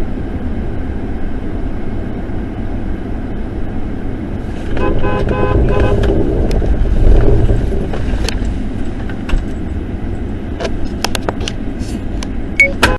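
Steady road and engine noise from a moving car, with a car horn sounding in a few short beeps about five seconds in. Several sharp knocks come near the end.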